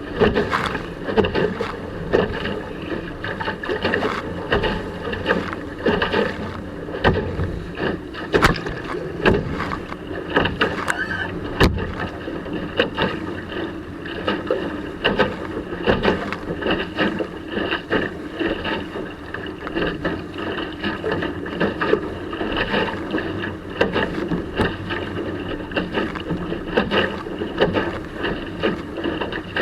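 Small sailing dinghy under way in strong wind: the hull rushes and slaps through the water with a continuous, surging wash. Two sharp knocks sound about a third of the way in.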